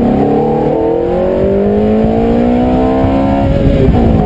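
Ferrari F430's 4.3-litre V8 accelerating hard, heard from inside the cabin. Its pitch climbs steadily for about three and a half seconds, then falls suddenly near the end and settles lower.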